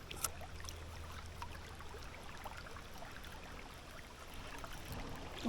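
River water running, a faint steady rushing, with a few small ticks scattered through it.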